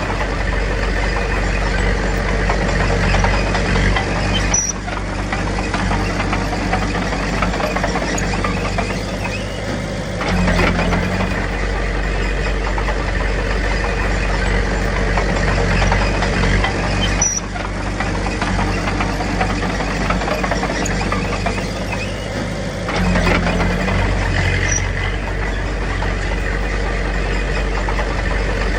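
Komatsu D21P bulldozer's diesel engine running under changing load, its note and loudness shifting about every twelve seconds as the dozer works.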